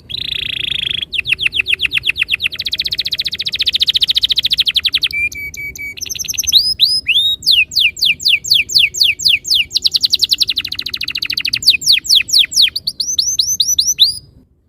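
Domestic canary singing a long rolling song: fast runs of one note repeated many times a second, then runs of quick falling whistled sweeps, with a brief change of phrase about five seconds in. The song stops shortly before the end.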